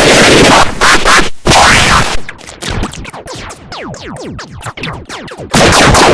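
Heavily effects-processed, distorted audio sample. Loud clipped bursts of harsh noise open and close it, and between them the sound breaks into rapid, stuttering sweeps that fall in pitch several times a second, like scratching.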